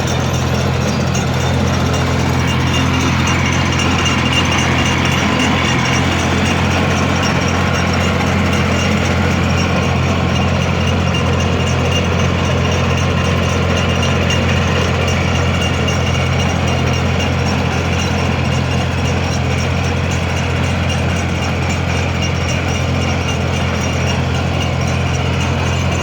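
Small engine of a rotary tiller running steadily as it mills the soil between rows of garlic.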